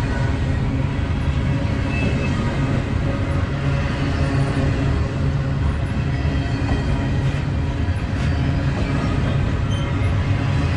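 BNSF freight train rolling past close by: a steady, loud rumble of wheels on rail with a deep low hum that does not change.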